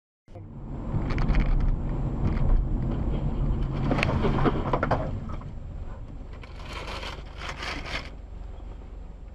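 Car on the road, heard as a dashcam hears it: a steady low rumble of engine and tyres, with scraping noises about four seconds in and again around seven to eight seconds.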